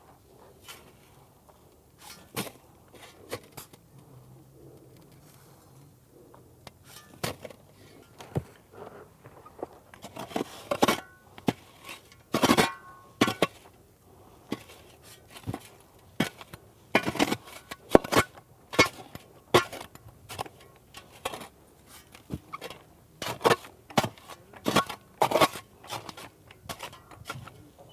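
Sand being shovelled: irregular scrapes and knocks of a shovel working sand, coming in clusters of several strokes with short gaps between them.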